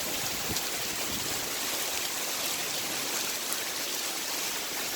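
Steady downpour of heavy rain, with runoff water pouring and splashing over steps and out of gutters.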